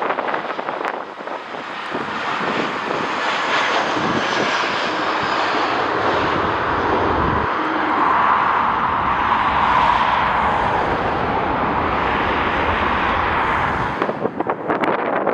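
Jet airliner passing by, its engine noise swelling over several seconds, at its loudest in the middle and then easing off, with a faint falling whine early on. Wind buffets the microphone near the end.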